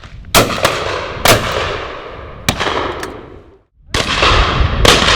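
Shotguns firing at high driven pheasants: several loud shots with fainter ones from further down the line, each followed by a long rolling echo. The sound cuts out briefly a little past halfway, then two more loud shots.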